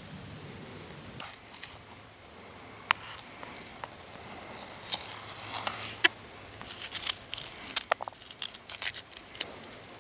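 Wood campfire crackling: scattered sharp pops, growing into a dense run of loud pops and snaps in the second half.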